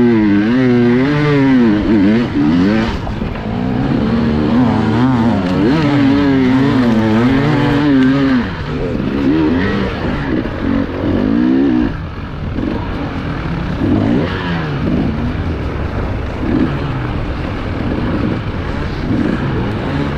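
Enduro motorcycle engine revving up and down as the throttle is worked over rough terrain: sustained wavering revs for the first several seconds, then shorter, choppier throttle blips.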